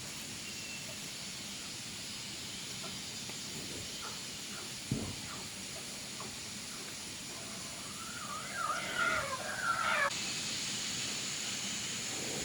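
Steady outdoor hiss with a single knock about five seconds in, then an animal's short wavering call, rising and falling in pitch for about a second and a half, near the end.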